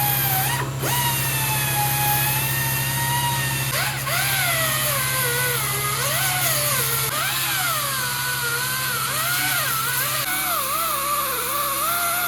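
Grinder grinding down fresh welds on the steel firewall and cowl panel. The motor hums steadily while its whine dips and rises again and again as the disc is pressed into the metal and eased off.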